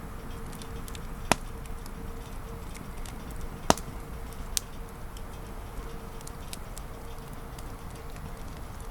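Wood campfire crackling: scattered faint ticks with two sharp pops, about a second and a half and about three and a half seconds in, and a smaller one soon after.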